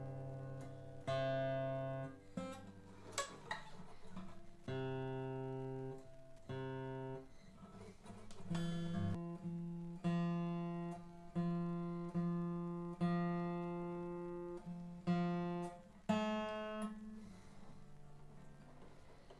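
Seagull S12 Coastline 12-string acoustic guitar being tuned on fresh strings: a few strummed chords, then a single low string plucked again and again, about every second and a half, while it is brought to pitch, and a last chord near the end.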